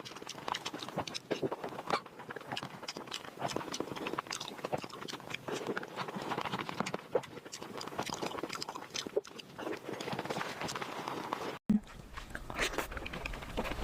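Close-miked chewing and lip-smacking, a dense run of small wet clicks. A little before the end the sound drops out for an instant and resumes with a low hum underneath.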